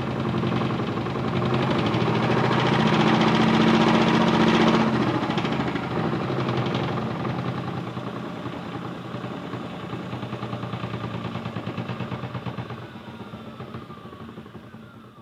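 Small electric motor of a Hotpoint toy washing machine running its drum, a steady hum with a fast rattle that swells, then slowly winds down, its whine falling in pitch near the end.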